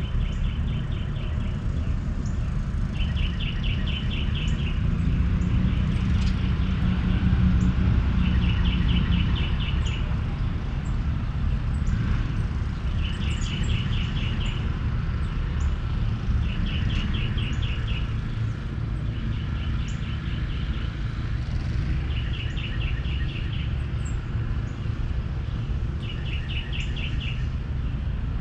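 A songbird repeating a short, rapid trill of evenly spaced notes every three seconds or so, with faint chirps from other birds, over a steady low outdoor rumble that swells with a low hum in the middle, like a passing vehicle.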